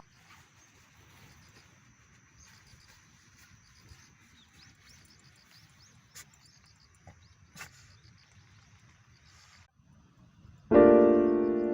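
Faint background hiss with a thin, high steady tone and two short clicks. About ten seconds in, piano music comes in loudly.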